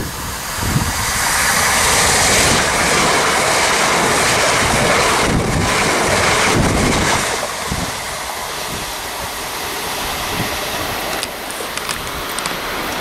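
Southeastern Electrostar electric multiple unit passing close at speed: a rising rush of wheel and rail noise, loudest for about five seconds as the carriages go by, then easing off as it runs away, with wind buffeting the microphone.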